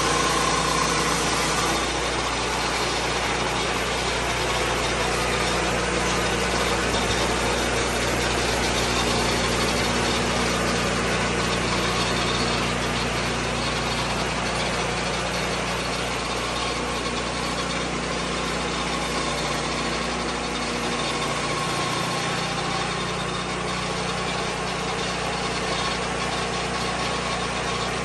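Engine of a Lucas Mill 10-30 swing blade sawmill running steadily at a constant pitch, with no clear rise or fall in revs.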